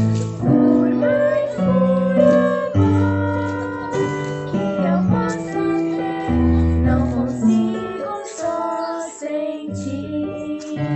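A girl singing a worship song to keyboard accompaniment, with long held notes over sustained chords.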